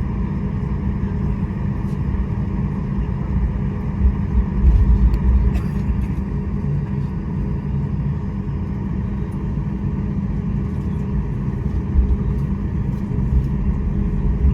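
Cabin noise inside a Boeing 737 MAX 8 airliner: a steady low rumble from the engines and airframe, with a few heavier bumps about four to five seconds in and again near twelve seconds.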